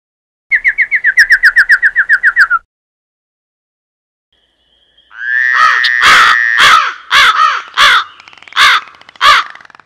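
Bird calls: a fast trill of about fourteen notes lasting two seconds, then after a pause a string of loud, harsh caws.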